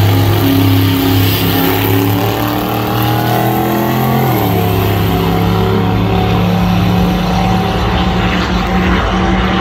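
A loud car engine at full throttle down the drag strip, its pitch climbing steadily, then dropping sharply about four seconds in as it shifts up a gear and climbing again.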